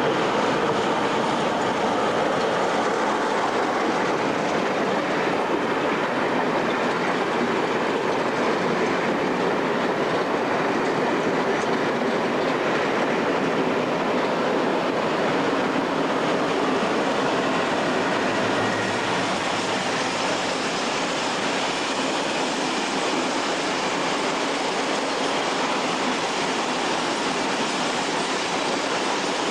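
Freight train running past on the main line, its wagons rolling by in a steady, continuous rumble and rattle of wheels on rail.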